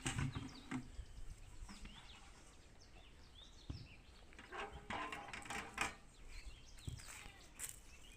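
Outdoor background with short bird chirps scattered throughout and a few sharp knocks, the loudest just at the start.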